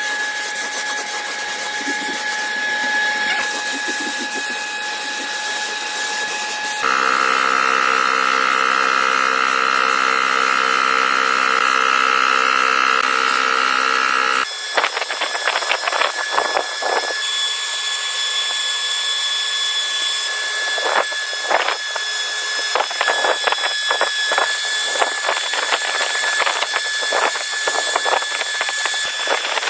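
Power tool running with a steady whine. About a third of the way in, the whine becomes louder and richer for several seconds, then cuts off suddenly. The rest is scraping with many sharp clicks over a faint whine.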